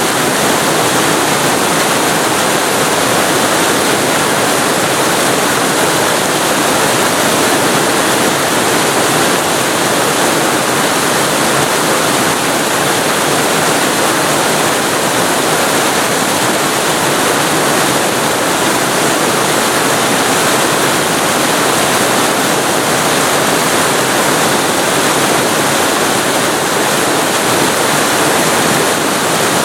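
Waterfall heard from very close: a loud, steady rush of falling water that stays even throughout.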